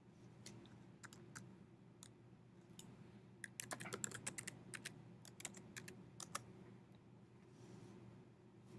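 Faint computer keyboard typing: a few scattered keystrokes, then a quick run of keystrokes in the middle, over a faint steady hum.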